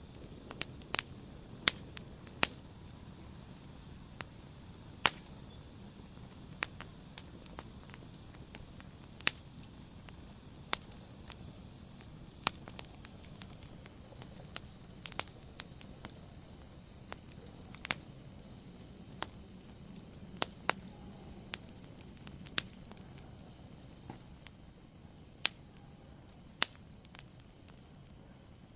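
Wood fire in a fireplace crackling, with sharp irregular pops and snaps over a low steady hiss of burning logs.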